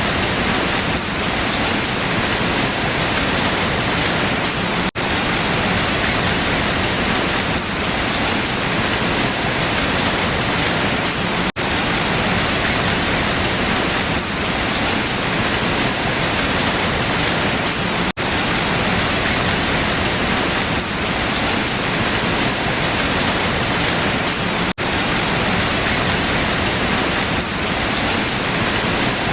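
Steady rain falling on leaves, a dense even hiss of drops, broken by a split-second dropout about every six and a half seconds.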